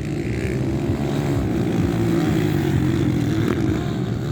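Motorcycle engines of the 125–160 cc class running on the motocross track, a steady loud drone with engines revving up and down.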